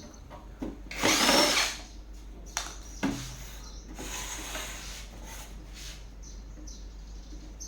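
A small electric motor whirring in short bursts: a loud one about a second in and a longer, softer one near the middle, with light clicks of handling between.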